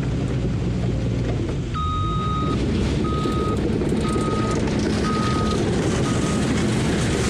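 Engine of a heavy earthmoving machine running steadily, with its reversing alarm beeping five times, starting about two seconds in, the first beep longer and the last fainter.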